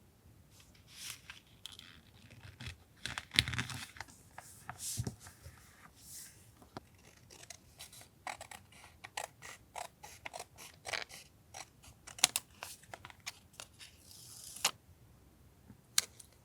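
Paper and stationery being handled for a journal collage: an irregular run of small taps, clicks, rustles and scrapes of paper, with a couple of sharper taps.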